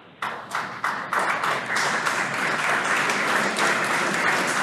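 Crowd applause breaking out suddenly a moment in, a few scattered claps that swell within a second into steady, loud clapping, greeting the Falcon 9 second-stage engine cutoff.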